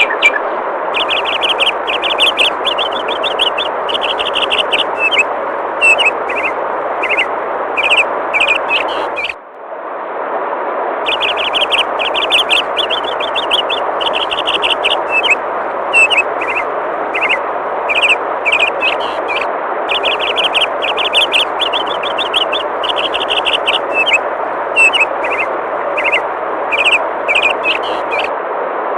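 Steady rush of flowing river water with songbirds chirping in quick repeated trills over it. Water and birds dip out briefly about a third of the way in, then resume.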